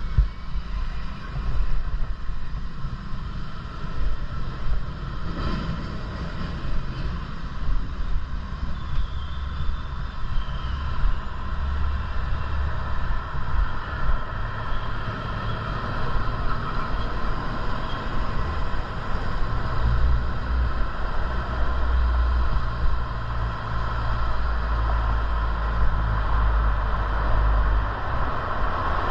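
Wind buffeting the microphone of a camera on a moving bicycle: an uneven low rumble that swells and fades, over a steady hiss of riding noise.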